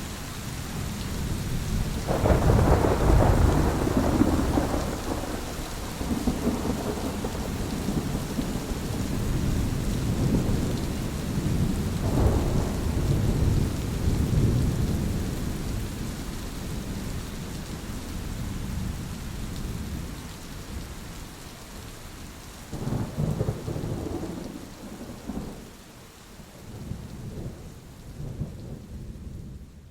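Thunderstorm: steady rain falling under rolling thunder, with a loud clap and rumble about two seconds in, further peals at about twelve and twenty-three seconds, fading out at the very end.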